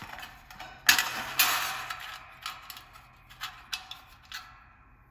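Metal clinking and scraping as a space heater's coiled-spring heating element is worked loose from its mounts, with a sharp knock about a second in, a scraping rattle after it, then a few light clicks.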